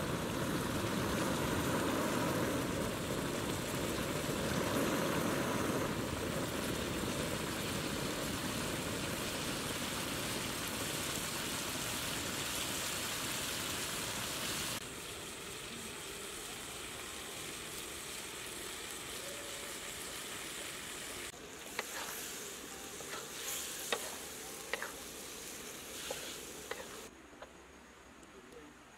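Eel pieces frying in a wok over a wood fire, a steady sizzle. The sizzle drops to a lower level about halfway, and a few sharp clicks come in the later part.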